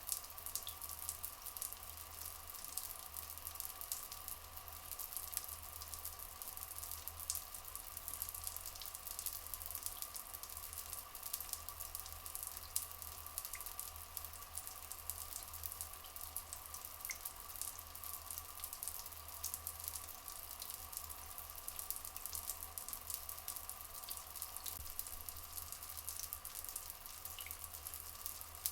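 Rainforest ambience: steady running water, thick with fine dripping and crackling, over a constant faint hum, with a few faint short chirps now and then.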